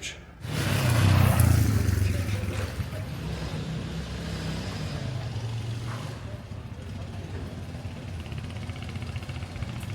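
A motor vehicle's engine running close by. It swells in loudly about half a second in, peaks over the next second or two, then carries on as a steady low hum.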